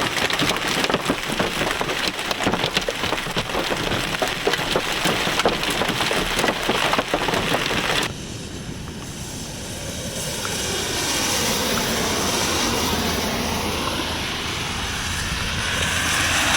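Hail and heavy rain pelting a vehicle, a dense, rapid clatter of impacts. About eight seconds in it cuts off abruptly, giving way to a smoother, steady rushing noise with a low hum that grows somewhat louder.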